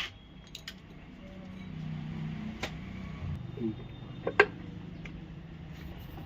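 Scattered metal clinks and knocks of tools and engine parts being handled while a diesel engine's timing cover is taken off, the loudest about four and a half seconds in, over a steady low hum.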